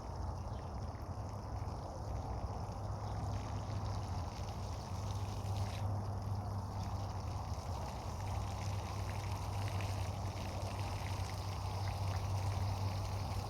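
Steady rush of running water, unbroken, over a steady low hum.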